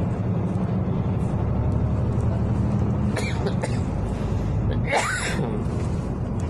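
City bus engine droning in the cabin, its low note shifting about three seconds in. Two short sharp sounds cut across it, a cough-like one about three seconds in and a louder one about five seconds in.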